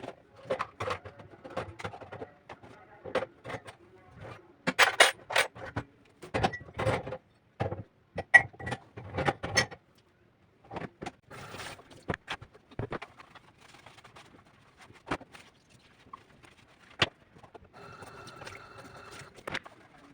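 Irregular knocks and clatter of household objects being handled, louder in a cluster about five seconds in and again around eight to nine seconds.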